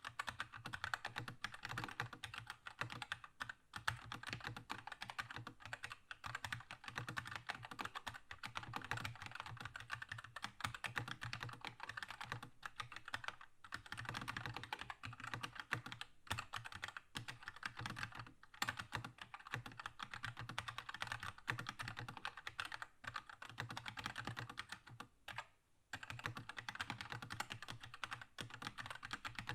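Continuous fast typing on a Keychron K2 mechanical keyboard with linear red switches: a dense run of clacking keystrokes, with brief pauses about thirteen seconds in and near the end.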